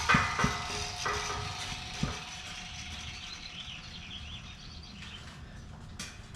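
A few knocks on hollow welded steel tubing, one leaving a single-pitched ring that fades over about four seconds. Faint bird chirps in the middle.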